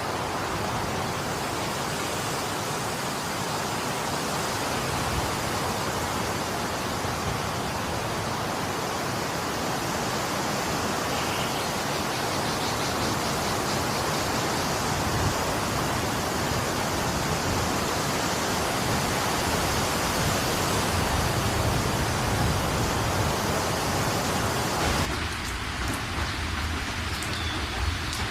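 Steady rain, a dense even hiss. About 25 seconds in it changes abruptly to a thinner rain sound with a low rumble underneath.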